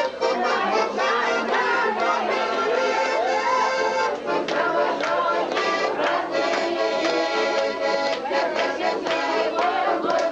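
Music with an accordion, playing steadily on sustained chords.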